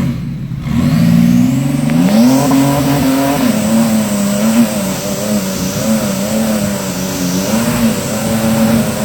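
Turbocharged 4.0 SOHC V6 engine of a Ford Ranger run flat out on a muddy hill climb. The revs climb sharply about a second in, then hang high and waver up and down on the rev limiter.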